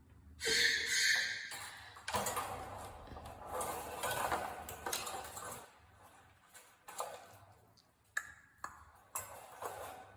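Small hard toy, likely a parrot's toy ball, clattering and clinking, then a few separate sharp clicks near the end.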